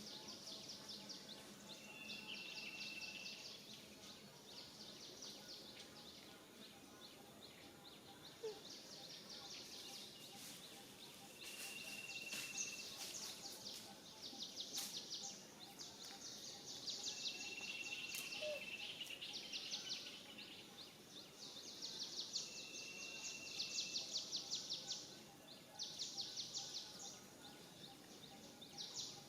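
Outdoor natural ambience: high-pitched pulsing buzz in repeated bouts of one to three seconds, typical of insects, with four short, steady whistled notes like a bird call.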